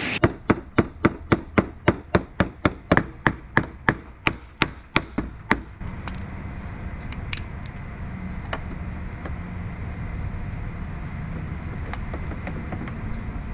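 Hammer blows on the crushed RV cargo door, straightening the dented door panel: a quick run of about twenty sharp strikes, about four a second, stopping about six seconds in.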